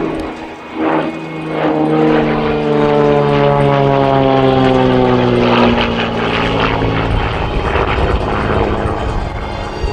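Xtreme Air XA41 Sbach 300 aerobatic plane's piston engine and propeller making a fast low pass, the pitch falling steadily as it goes by, then settling into a steady drone as it flies away.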